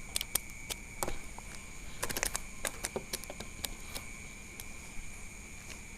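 Night insects chirring in a steady high drone, with scattered sharp clicks and taps close by, a quick cluster of them about two seconds in.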